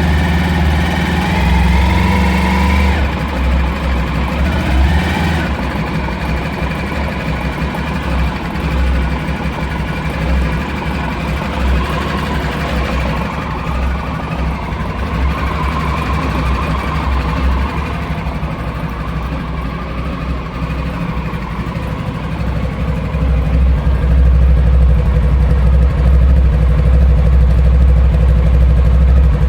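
Honda ST1100 Pan-European's V4 engine idling steadily while it warms up after a cold start. The note shifts slightly a few seconds in, and the deep hum grows louder about three-quarters of the way through.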